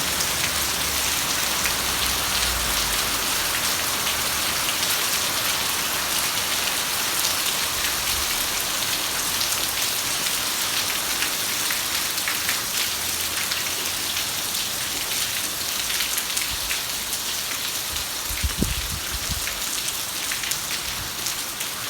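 Heavy rain falling steadily, a dense hiss of drops hitting surfaces. There is a single dull thump about three-quarters of the way through.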